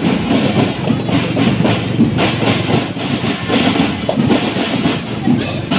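Marching drum band playing, its drums beating a fast, steady rhythm of strikes.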